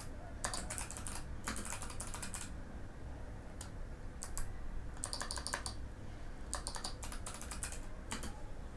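Typing on a Mikit M65 mechanical keyboard with clicky Box White switches, keys clacking in quick runs broken by short pauses. The longest pause is about two seconds, midway through.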